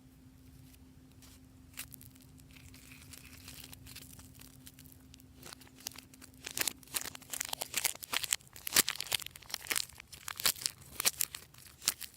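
Glossy slime being worked by hand, giving off a quick run of sticky crackling pops that starts a little past halfway and grows busier.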